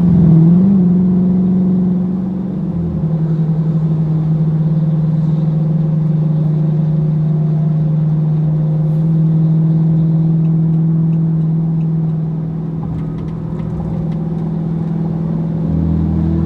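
Car engine and road noise at highway cruise, heard inside the closed cabin: a steady low drone, with a brief rise and fall in pitch under a second in and a deeper rumble joining near the end.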